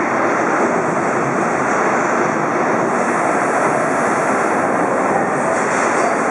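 Amada Pega 357 CNC turret punch press running on a test of its auto-index stations: a loud, steady mechanical noise with no separate knocks.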